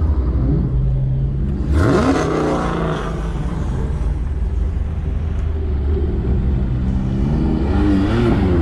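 Car engine running as the car pulls away, revving up with a rising pitch about two seconds in, then settling to a steady drone, with a second rise in revs near the end.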